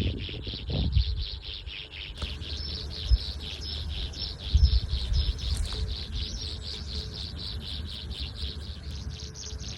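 Rhythmic insect chirping, about three to four pulses a second, with short high bird chirps in the middle and low rumbling thumps underneath.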